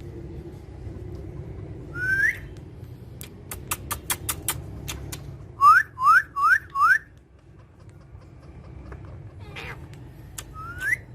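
A parrot whistling short rising notes: one about two seconds in, four in quick succession around six seconds in, and more near the end. A run of sharp clicks comes between them.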